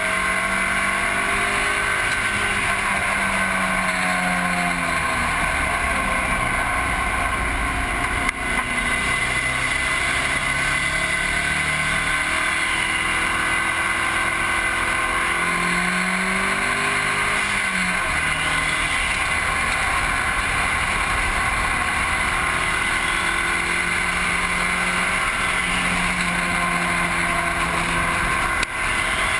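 Car engine under hard acceleration on a race track, its revs climbing and dropping several times through gear changes and braking. Loud wind rush and road noise over the low, front-mounted camera's microphone run under it.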